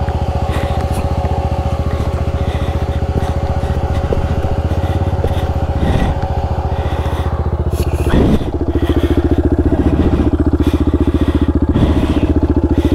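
Single-cylinder dual-sport motorcycle engine running steadily, its note stepping up and getting a little louder about eight seconds in, while the bike sits on a sand dune after a failed climb.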